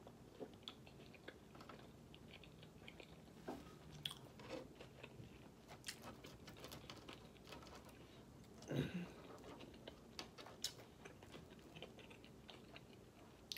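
Quiet, close-up chewing of a mouthful of burger and fries: faint wet mouth clicks and smacks, with one brief louder mouth sound about nine seconds in.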